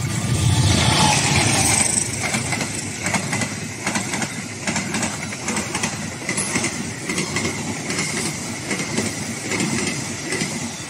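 A diesel-hauled passenger train passing close by. The locomotive goes past loudest in the first couple of seconds, then the carriages run by with the wheels clicking repeatedly over the rail joints.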